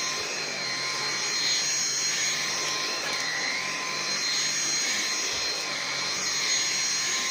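Numatic James canister vacuum cleaner running steadily: a constant motor whine over rushing suction air, with the airflow's pitch wavering slightly up and down.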